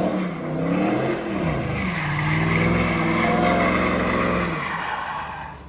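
A car engine revving hard with its pitch swinging up and down, then held high for a couple of seconds while the tyres squeal as the car slides, dying away near the end.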